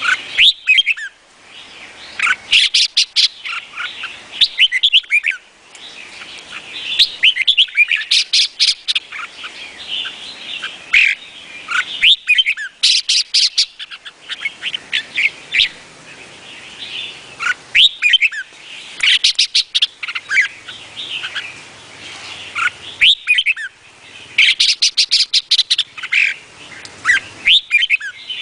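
Red-whiskered bulbul singing: short bright whistled phrases, repeated every couple of seconds, several of them with fast runs of clicks.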